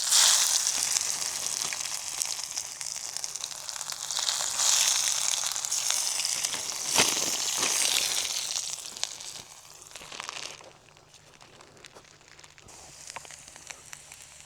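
Potato patties sizzling in a hot skillet. The sizzle surges a few times, then dies down to a quieter fry about two-thirds of the way through.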